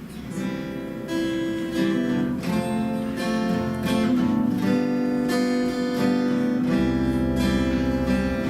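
Acoustic guitar strumming chords as an instrumental interlude between verses of a worship hymn, with a deep bass joining near the end.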